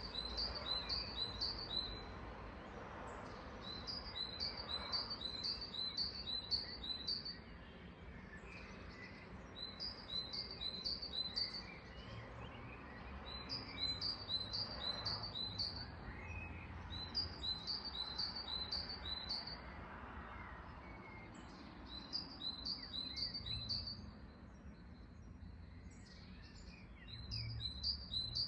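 Songbird chirping: one bird repeats a quick run of six to eight high notes, each run under two seconds, about every four seconds, with fainter calls from other birds in between over a faint low background rumble.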